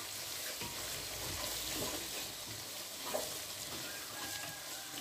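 Chopped onions, green chilies, curry leaves and ginger-garlic sizzling steadily as they fry in oil, ghee and margarine, stirred with a wooden spoon in a large aluminium pot.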